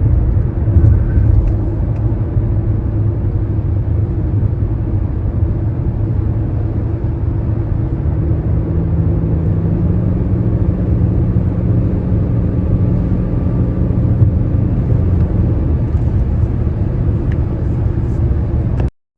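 Steady low rumble of a car driving on a wet highway in rain: tyre and road noise heard from inside the car. A low hum joins about eight seconds in, and the sound cuts off abruptly near the end.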